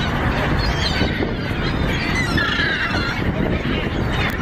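Waterbirds calling in high, wavering squeals over a steady low background rumble.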